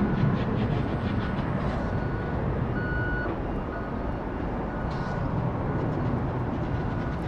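Steady rumble of airport jet and road traffic noise, easing slightly, with a vehicle's reversing alarm giving short repeated beeps.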